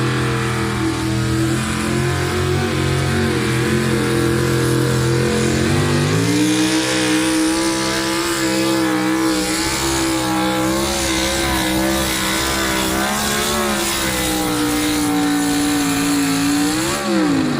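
Pulling truck or tractor engine running loud at full throttle during a sled pull. Its pitch steps up about six seconds in and holds steady, then briefly rises and drops again near the end.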